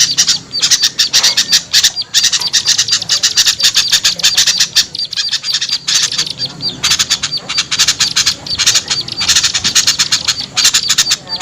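Noisy chattering of several small birds: rapid, harsh scolding calls in dense runs with short pauses, the excited flock sound used as a lure call to bring small birds down.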